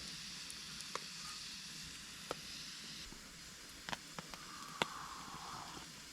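Wood fire crackling: a steady soft hiss with irregular sharp pops, the loudest near the middle.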